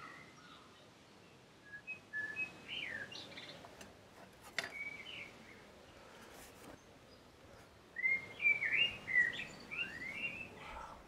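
A songbird singing short phrases of quick rising and falling whistles, with its fullest burst about eight seconds in. A single sharp tap sounds about halfway through.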